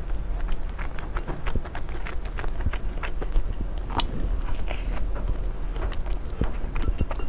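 Close-miked eating sounds: a steady run of irregular crunching and clicking bites and chews, over a low steady hum.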